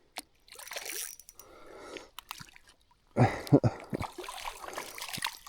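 Water splashing and dribbling as a small hooked bass fights at the surface and is drawn in on the line, with a few sharp clicks and knocks of handling gear. The noise grows louder about three seconds in.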